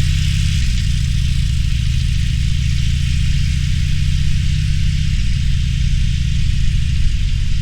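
Harley-Davidson Roadster's air-cooled V-twin engine running at low, steady revs, with a steady hiss above the engine note.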